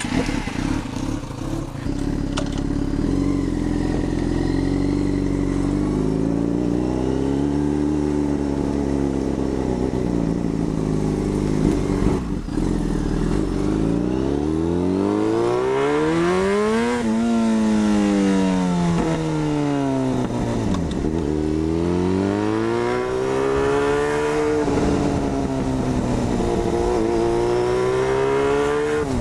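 2006 Yamaha FZ6's 600 cc inline-four engine through an SP Engineering dual carbon aftermarket exhaust. It idles fairly steadily at first, then pulls away and rides on, its pitch rising and falling repeatedly as it accelerates and eases off, with a strong climb about halfway through.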